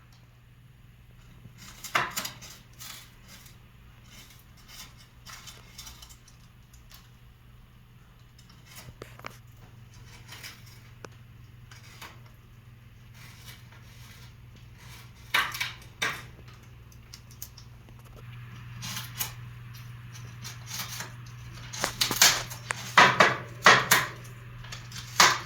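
A caique parrot chewing and shredding wood with its beak: irregular crunches and cracks, coming thickest near the end, over a steady low hum.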